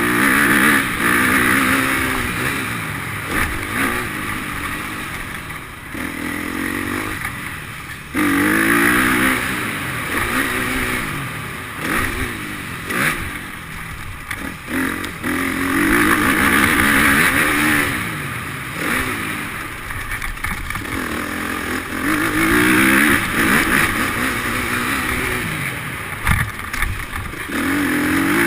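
Motocross bike engines revving hard and easing off over and over as they ride the track, the engine note rising and falling, with loud swells about every six to eight seconds.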